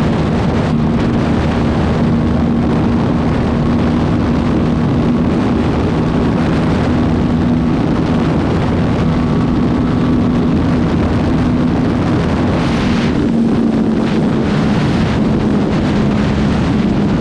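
Aprilia RS457 parallel-twin engine running at a steady, held speed while riding, with wind rushing over the microphone.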